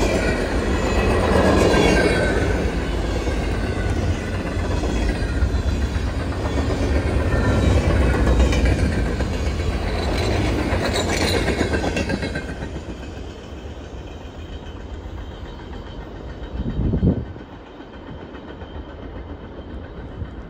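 Freight train cars rolling past, with a steady rumble of steel wheels on rail. About twelve seconds in the noise drops and fades as the last cars go by and the train moves away. A brief swell of noise stands out near the end.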